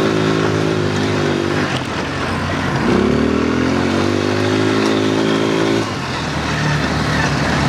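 Quad bike engine pulling under throttle. It eases off just under two seconds in, revs up again about three seconds in and lets off near six seconds.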